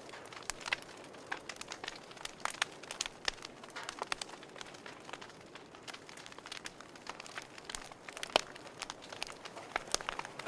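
Burning wood logs in a fireplace crackling: irregular sharp pops and snaps over a soft hiss, with one louder pop about eight seconds in.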